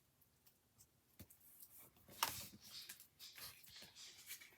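Faint handling of paper and card: a couple of light clicks, then soft rustling as the journal's waterfall cards are nudged into place.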